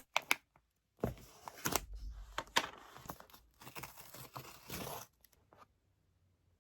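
A few sharp clicks, then about four seconds of crinkling and tearing as something is handled, stopping a little after five seconds in.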